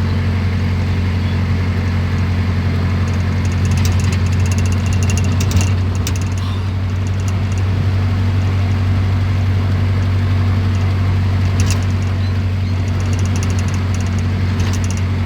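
A moving vehicle's steady low engine and road drone, with a few faint clicks about four to six seconds in and again near twelve seconds.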